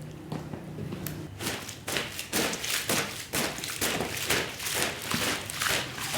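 Repeated strokes of a cleaning tool on a wet, muddy shag rug, about two a second, starting a little over a second in.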